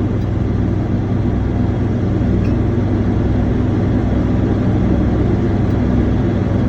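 1976 Chevrolet 454 big-block V8 running steadily just after a cold start at around minus 30.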